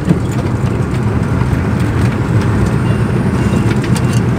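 Truck's diesel engine running steadily with road noise, heard from inside the cab while driving, with a light knock just after the start.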